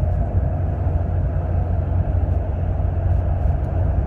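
Steady road and engine noise inside a moving car's cabin, a continuous low rumble with tyre hiss.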